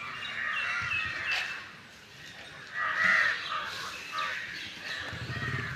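Birds calling in short scattered calls, the loudest about three seconds in.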